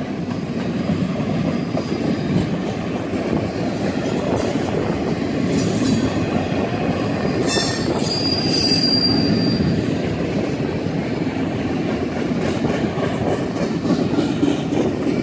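Double-stack intermodal freight cars rolling past with a steady rumble of steel wheels on rail. A few short high-pitched wheel squeals come through in the middle.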